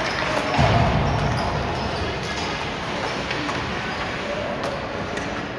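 Ice hockey game in a rink: a steady echoing murmur of crowd and bench voices, with scattered light clacks of sticks and puck and a dull thud about half a second in.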